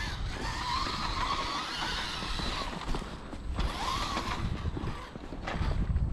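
Electric motor and gear whine of an RC truck under throttle as it climbs through snow. The whine holds for about two and a half seconds and cuts out, then comes back briefly about four seconds in, rising and falling.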